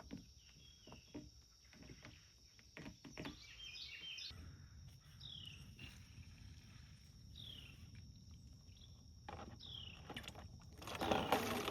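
Scattered faint clicks and knocks of hands working a hose, with a bird giving a few short falling chirps. About eleven seconds in, a louder rushing noise begins.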